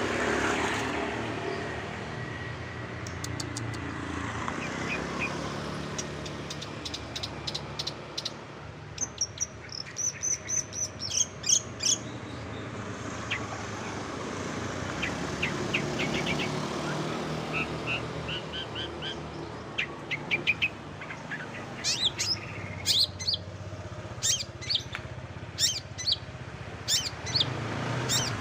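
Songbird chirping in quick runs of sharp, high notes, coming in clusters with pauses between, over a steady low background hum.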